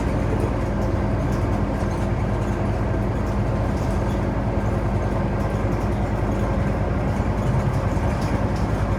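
Scania OmniCity city bus running at a steady engine speed, heard from on board, with a steady engine hum and road noise.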